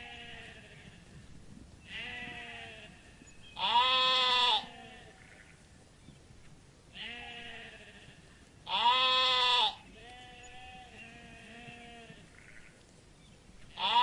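Bleating farm animals: repeated bleats, with two loud, long bleats of about a second each, roughly five seconds apart, a third starting right at the end, and quieter, shorter bleats in between.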